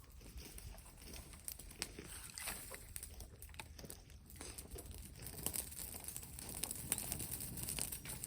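Irregular crackling and rustling of dry wood and brush, scattered sharp snaps without a steady rhythm.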